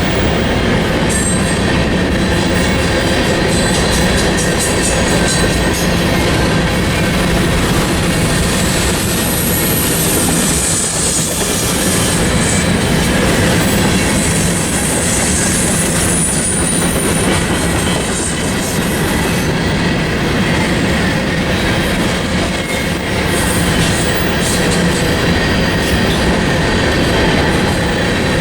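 Freight train cars rolling past on the track in a steady, loud rumble and rattle, with a faint high squeal of wheels against rail in the middle stretch.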